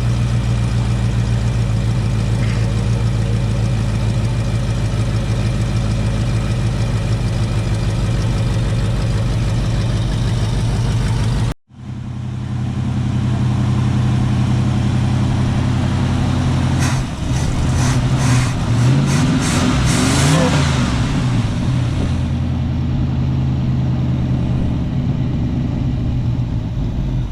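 Donor car engine running on gas poured straight into the carburetor, with its fuel tank empty. It idles steadily, breaks off for an instant about eleven seconds in, then comes back and is revved up and down a few times before settling to idle.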